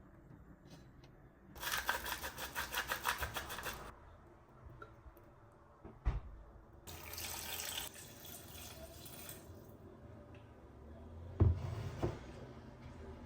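Running water in two bursts of about two seconds each, with a few knocks between and after them.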